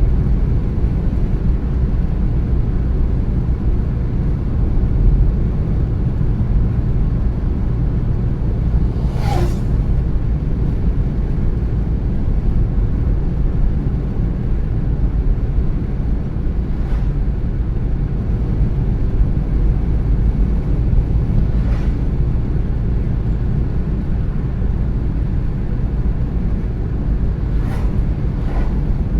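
Steady low rumble of a car driving on the road, tyre and engine noise, with a few faint short ticks; the clearest comes about nine seconds in.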